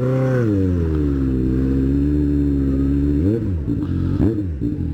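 Motorcycle engine running at low speed. Its pitch eases down after a rev at the start, then holds steady, and two quick throttle blips come near the end.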